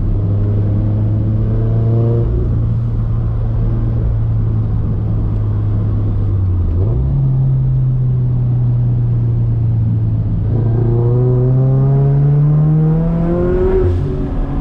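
Turbocharged Scion FR-S's engine driving hard: a steady drone, a sudden jump in revs about seven seconds in, then revs climbing steadily under acceleration before dropping sharply near the end, as at a gear change.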